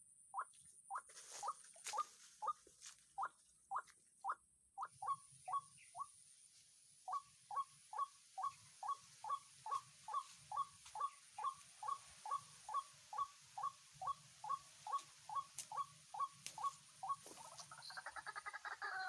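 White-breasted waterhen (ruak-ruak) calling, one short note repeated over and over at about two a second, with a brief pause partway through; the calls stop shortly before the end, where a different clucking call starts.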